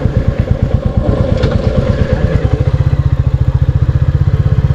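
Royal Enfield Classic 350's single-cylinder engine thumping under way at low revs. The beats quicken about two and a half seconds in as it picks up revs, with a brief clatter a little before that.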